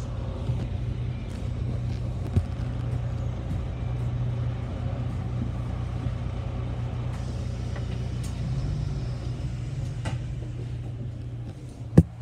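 A London bus's engine running with a steady low drone, with scattered clicks and knocks, and one sharp loud knock near the end.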